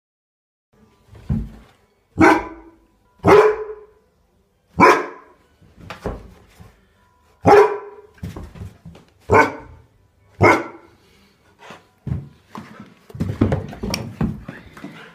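Akita barking: single loud barks spaced one to two seconds apart, with quieter barks between them and a quicker run of barks near the end.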